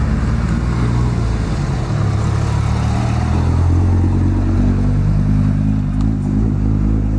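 A Fiat Coupé driving slowly past at close range, its engine running with a low, steady note that grows loudest about four seconds in as the car goes by.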